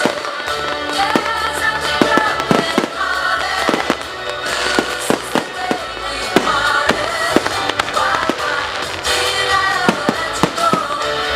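Fireworks display: many sharp bangs and crackles from bursting shells, scattered irregularly over loud music playing throughout.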